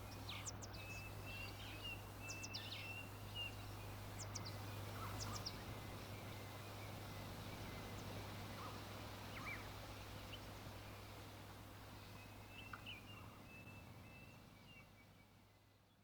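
Recorded nature ambience of birdsong: scattered short bird chirps and calls over a soft steady background with a low hum underneath, fading out near the end.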